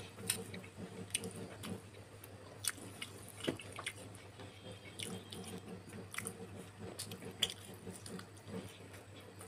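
Close-up chewing and biting of soft steamed momo dumplings, with scattered sharp clicks over a steady low hum.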